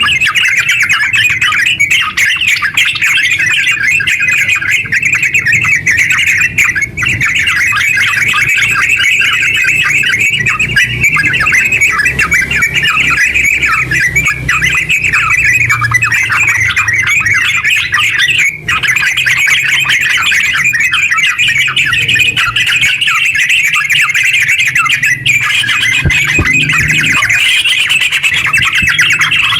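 Yellow-vented bulbul (terucuk) singing in a long, rapid, almost unbroken chattering run of short notes, the 'ngeropel' style of song, with a few brief breaks. A faint low hum sits underneath.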